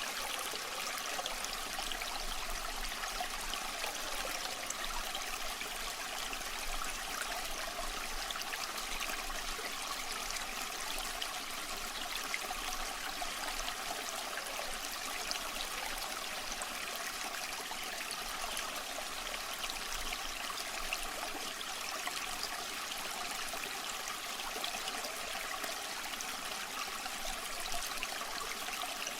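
Small stream running steadily over rocks, a continuous, even rush of water.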